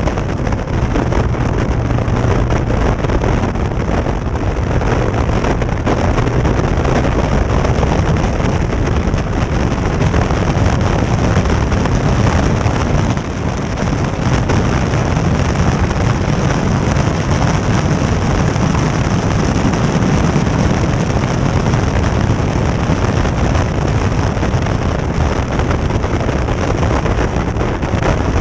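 Caterham Seven's engine running hard at speed, heard from the open cockpit, with heavy wind buffeting on the microphone; the noise drops briefly about halfway through.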